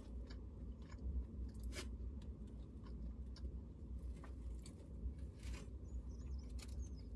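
Close-up chewing and crunching of food, with scattered short crunches and clicks over a steady low rumble.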